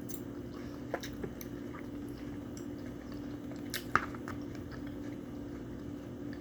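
Close-miked eating: a person chewing and biting food, with scattered short wet clicks and one sharper click about four seconds in, over a steady low hum.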